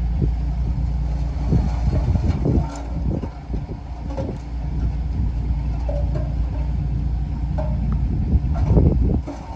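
Komatsu D20A bulldozer's diesel engine running steadily under load while it pushes soil. Knocks and clanks from the machine come a couple of seconds in and again near the end, with a couple of short squeaks in between.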